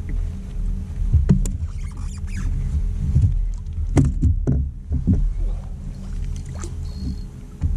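Scattered knocks and handling thumps over a steady low hum.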